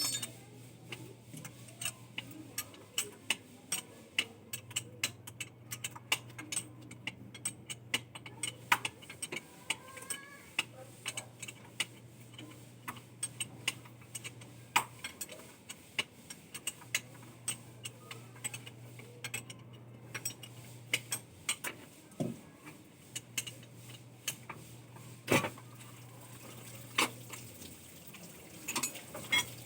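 Irregular light metallic clinks and clicks of metal tools and parts being handled, with a few louder knocks.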